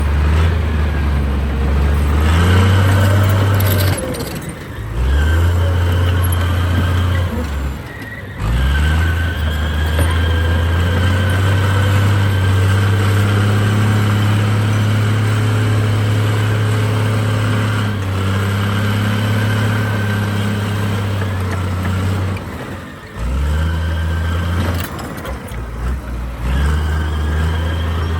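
Heavy diesel engine of earthmoving machinery running hard, its rumble dipping briefly three times as the throttle changes, with a high steady whine over it.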